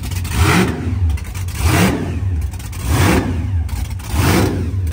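Car engine revved repeatedly, roughly once a second, the pitch rising and falling with each blip.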